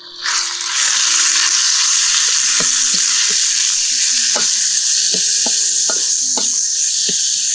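Minced fish sizzling loudly in hot oil in a metal wok. The sizzle jumps up suddenly just after the start and then holds steady, while a metal spatula taps and scrapes against the wok about every half second as the mixture is stirred.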